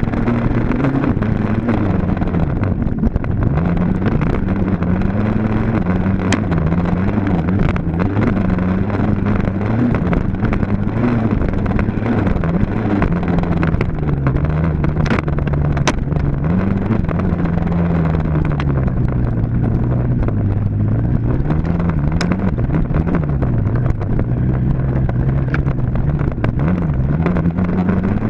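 Dirt bike engine running hard, its pitch rising and falling continually with throttle and gear changes, with a few sharp clicks or knocks.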